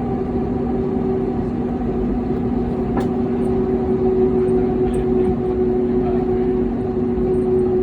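Jet engines of an airliner running steadily, heard from inside the cabin: a low rumble with a steady two-note hum. A single sharp click about three seconds in.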